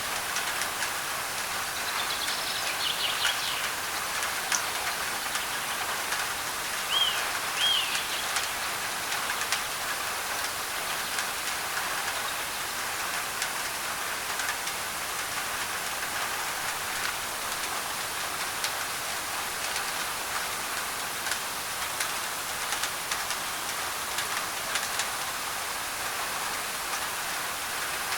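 Rain falling on a thin tin roof: a steady hiss with many sharp drop ticks. A bird chirps a few short notes in the first eight seconds.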